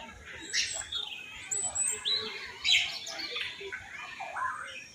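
Many aviary birds chirping and calling together in short, overlapping calls and quick whistled glides, with the loudest call a little past the middle.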